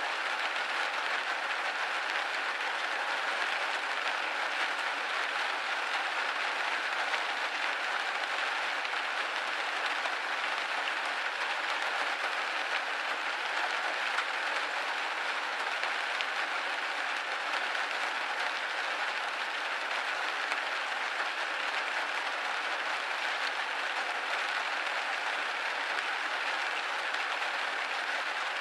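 Rain falling steadily on window glass: an even, unbroken hiss with no low rumble.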